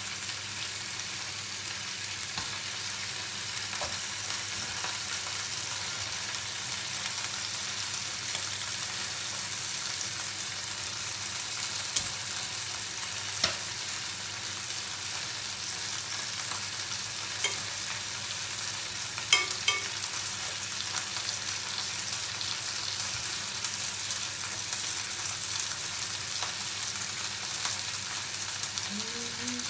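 Chicken legs frying in a pan without added oil, sizzling in the little fat they render: a steady sizzle, with a few sharp clicks or pops around the middle.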